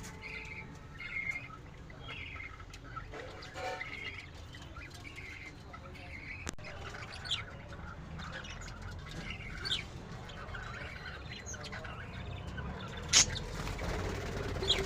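Pet budgies chirping and chattering in short, high warbling notes, with one sharp, loud chirp near the end.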